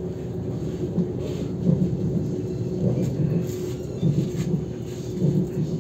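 Running noise inside an ES2G Lastochka electric multiple unit at speed: a steady low rumble of wheels on rail under a faint constant hum, with irregular heavier low knocks every second or so.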